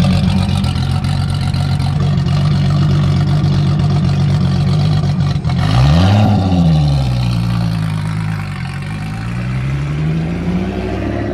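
Modified high-power car engines at a drag strip start line. A steady engine note runs for about five seconds, then about halfway through a quick rev rises and falls back to idle. The pitch climbs slowly again near the end.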